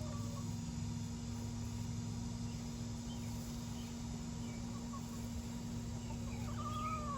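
Backyard hens clucking quietly now and then, with a longer, stronger call near the end, over a steady low hum.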